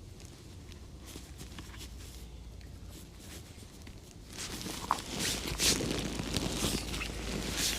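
Rustling and handling noise with a few sharp knocks, much louder from about halfway through.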